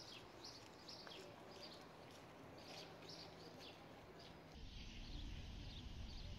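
Faint outdoor ambience of small birds chirping in short, repeated calls. About four and a half seconds in, a low rumble takes over, with a few fainter chirps.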